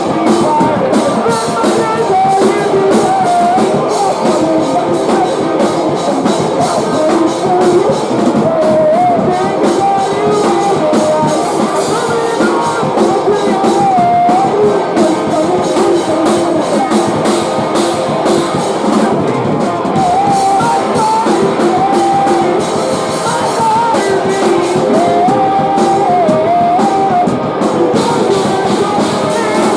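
Post-hardcore band playing live and loud: guitars, drums and a wavering, held melody line.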